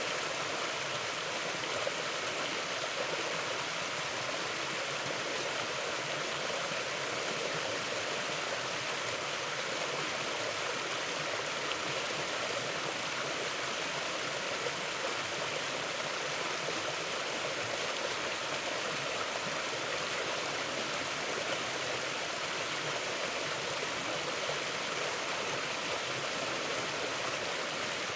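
Mountain river flowing steadily: an even, unbroken rush of water.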